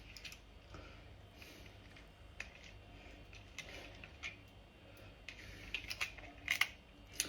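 Faint, scattered small clicks and taps, sparse at first and coming closer together near the end.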